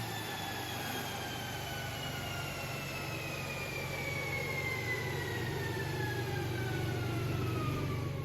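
Ferrari 458 Italia on a chassis dyno just after a full-throttle pull: a whine falls slowly and steadily in pitch as the wheels, drivetrain and dyno roller spin down, over a steady low hum.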